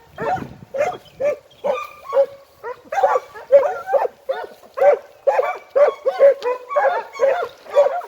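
A pack of segugio hounds giving tongue while trailing a hare: repeated baying calls, about two or three a second, with several voices overlapping.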